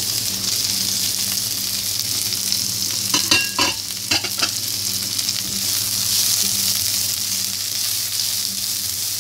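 Sliced red and green chillies and chopped garlic sizzling in hot oil in a non-stick wok as they are stirred fried with a silicone spatula. There are a few sharp clicks about three to four seconds in.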